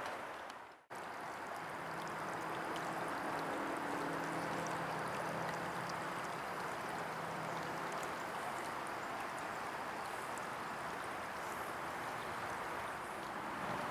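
Steady rushing outdoor ambience with a faint low hum beneath it, after a brief drop to silence under a second in.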